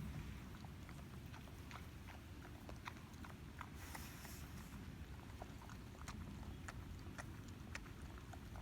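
Goats moving and feeding: faint scattered clicks and rustles over a low rumble, with a brief hiss about four seconds in.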